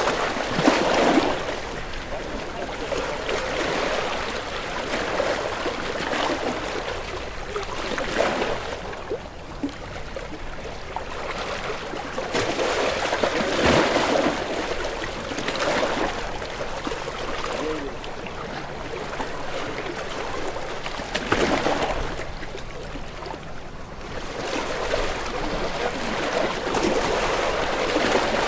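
Ocean waves breaking and washing in, a noisy rush that swells into a surge every several seconds and then eases back.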